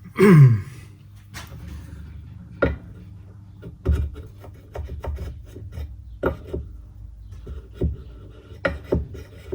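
A power tool spins briefly and winds down, its pitch falling, then a string of sharp metal clicks and knocks as universal joint parts and the drive shaft yoke are handled.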